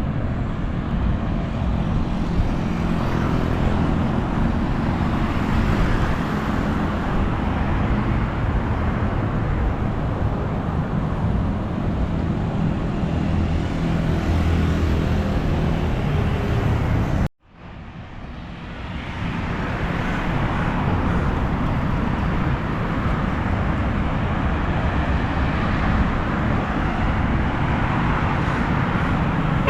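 Steady road traffic noise from passing cars, with a deep low rumble. About two-thirds of the way through, the sound cuts out suddenly and fades back in over a couple of seconds.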